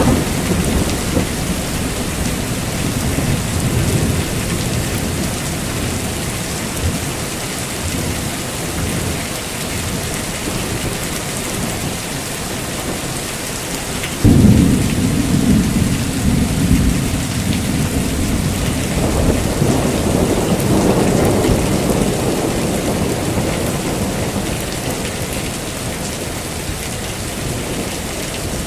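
Heavy rain falling steadily, with rolling thunder. A sudden loud thunderclap comes about halfway through, and a long rumble swells a few seconds after it.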